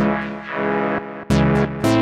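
ASM Leviasynth synthesizer playing a custom patch: rich chords struck three times, at the start, about a second and a half in, and just before the end. Each has a sharp attack whose bright edge falls away quickly, as from a fast filter sweep.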